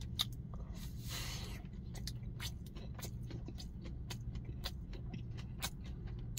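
A person biting into and chewing a gimbap (seaweed-wrapped rice roll), with many small sharp chewing clicks and a brief rustle of its paper wrapper about a second in, over the steady low hum of an idling truck engine.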